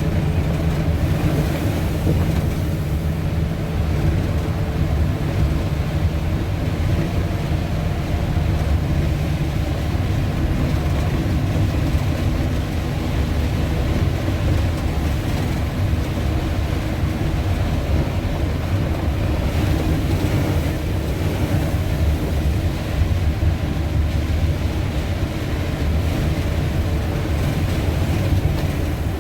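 A vehicle's engine and road noise heard from inside the cabin while driving: a loud, steady low rumble with a constant engine hum.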